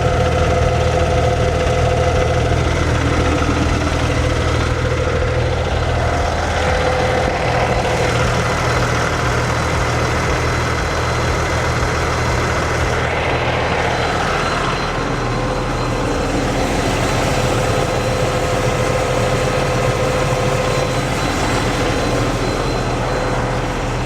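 Cummins X15 diesel engine idling steadily, its low hum shifting slightly about fourteen seconds in.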